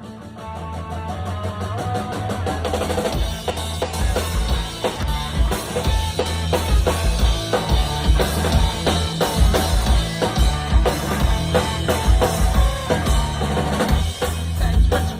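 Live punk rock band playing an instrumental intro: drum kit with kick and snare over bass and electric guitar, building in loudness over the first few seconds.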